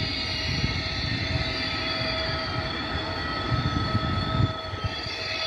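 Electric double-deck regional train moving slowly through the station, a steady whine over a broad running rumble. Wind buffets the microphone with low thumps.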